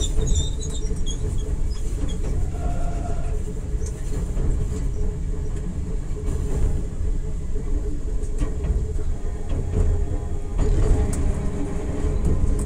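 Enoden electric train running, heard from inside the passenger car: a steady rumble of wheels and running gear under a constant hum. There is brief high squealing near the start.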